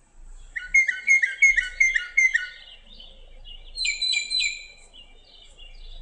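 Northern mockingbird singing: one phrase repeated about six times, then a switch to a different, higher phrase repeated about three times. The short run of repeats and then a switch is the mark that tells a mockingbird's song from the birds it mimics.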